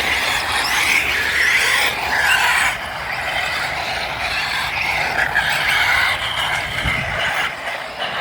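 Brushed electric motor and geartrain of an Arrma 1/18 Granite Grom RC monster truck whining as it drives, the pitch wavering with the throttle. It eases off slightly a little under three seconds in.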